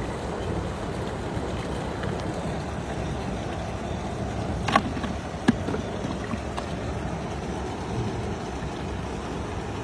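Steady wind and water noise around a boat at sea, with two sharp knocks about halfway through, less than a second apart.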